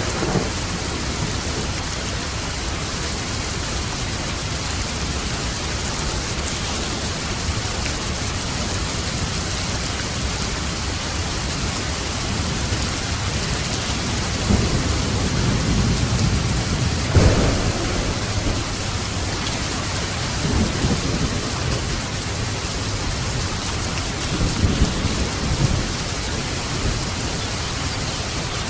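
Steady rain with thunder: low rumbles roll in about halfway through, with one sharper clap of thunder in the middle of them, and a few more rumbles follow towards the end.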